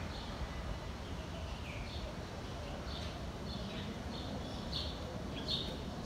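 Birds calling in short chirps, sparse at first and coming closer together near the end, over a steady low background rumble.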